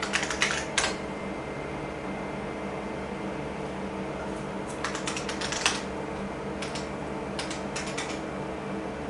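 Keys being typed on a clicky IBM keyboard in quick clusters: a few at the start, a run around five seconds in and more near eight seconds. Under them the vintage IBM PCs' fans and drives keep up a steady hum.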